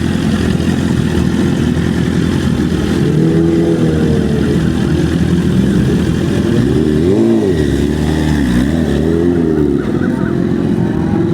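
Superbike engines running loudly, with the revs rising and falling about three seconds in, then several quick revs up and down between about seven and ten seconds.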